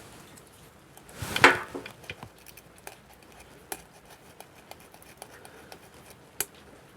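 Metal hand tools clinking and tapping on the valve gear while the valve clearances are being set. There is one louder clatter about a second and a half in, then scattered light clicks.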